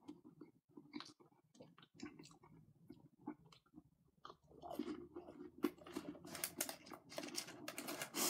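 A person biting into and chewing a crispy chicken nugget. There are light mouth clicks for the first few seconds, then from about halfway dense crunching that gets louder toward the end.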